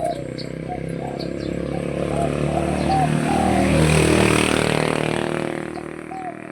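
A motor vehicle passes: its engine noise swells to a peak about four seconds in, then fades. Under it, short bird calls repeat.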